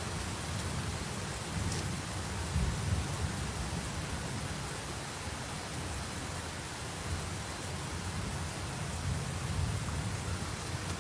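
Steady hiss of rain over an uneven low rumble that swells a couple of times, taken for thunder.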